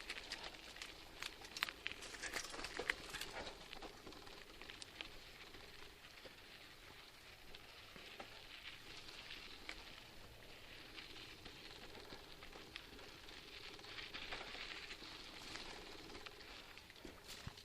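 Bicycle tyres rolling over a soft, sandy dirt trail: a faint, steady crackling hiss with many small clicks of grit, thickest in the first few seconds.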